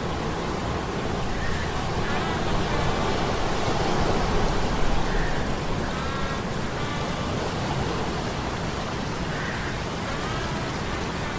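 Sea storm sound effect: a dense, steady rush of surf and rain-like noise that swells a little midway, with short pitched sounds that bend in pitch recurring every few seconds, layered over the noise.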